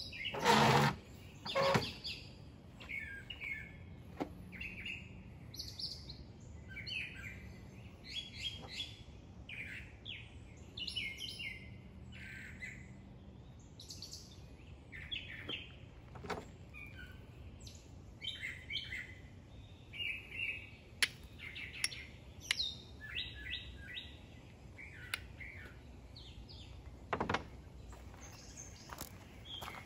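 Songbirds chirping on and off, short high calls every second or so. A brief loud rustle comes about half a second in, and a shorter one near the end.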